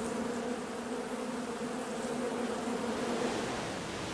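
A swarm of bees buzzing, a steady low drone that fades near the end.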